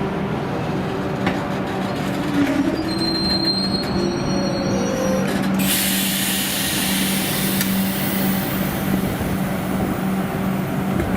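V/Line N class diesel-electric locomotive at a station with a steady engine hum. There are brief high-pitched wheel or brake squeals around the middle, then a steady hiss starts just past halfway and keeps going.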